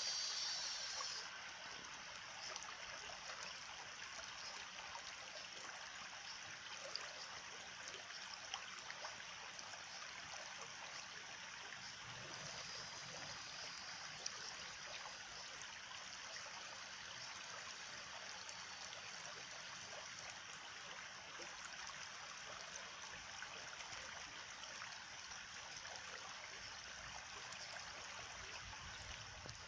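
Small stream trickling and gurgling steadily. A louder high-pitched shrill sound in the first second or so cuts off abruptly.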